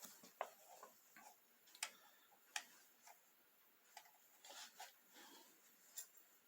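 Near silence broken by a handful of faint, brief clicks and taps a second or so apart, as small plastic toy parts are handled.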